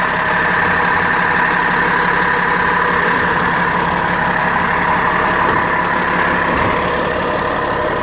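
Cummins diesel engine of a rear-engine International school bus idling steadily.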